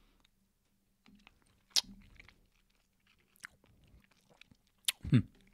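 Mouth sounds of a person sucking and chewing a large hard mint close to a microphone: faint wet smacks with a few sharp clicks of the mint against the teeth.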